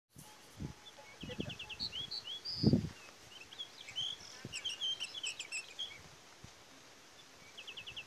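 Pied bushchat (decu) song: a short phrase of a quick ticking trill followed by slurred whistled notes, repeated, with a busier run of chirps in the middle. A few low thumps, the loudest about three seconds in.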